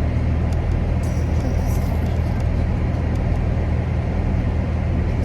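Car running, heard from inside the cabin as a steady low rumble.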